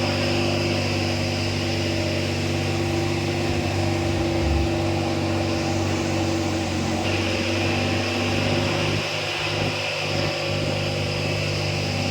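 A steady engine drone held at one pitch, with hiss above it; its lowest part thins out and breaks up about two-thirds of the way through.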